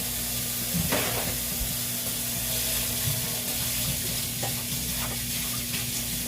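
Steady sizzling hiss of food frying in a pan, with a few light clicks of utensils.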